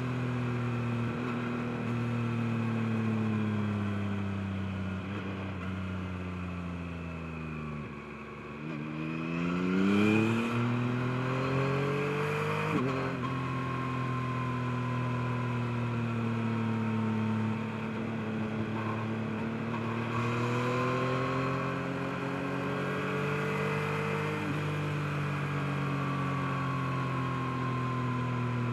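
Yamaha MT-09's three-cylinder engine riding along: the note sinks as the throttle closes, then climbs steeply under acceleration and drops suddenly at a gear change, then settles into a steady cruising note that rises and falls gently.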